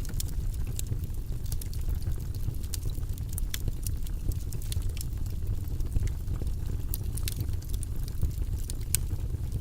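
Wood fire burning in a fireplace: a steady low rumble of flames under irregular sharp crackles and pops, several a second.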